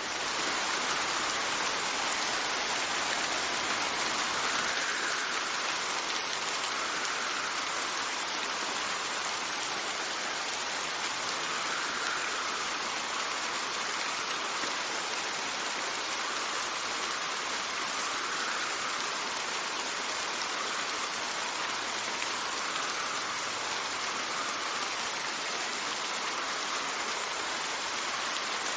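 Steady rain with wind, an even hiss that swells and eases gently every few seconds.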